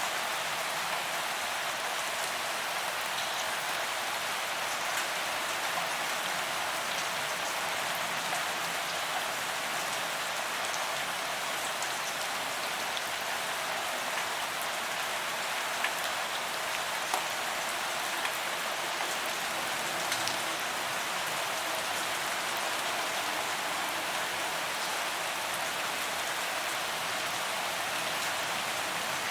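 Steady rain falling on a paved promenade, drops hitting the pavement in a constant patter, with a few louder single drop hits around the middle.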